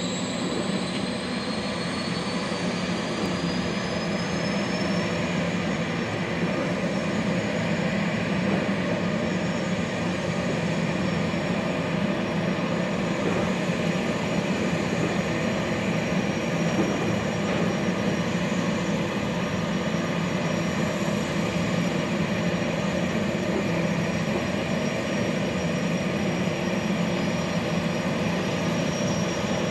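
Jetfoil's gas turbines running with a loud, steady rush and hum. A high whine climbs in pitch over the first few seconds, then holds steady as the boat gets under way.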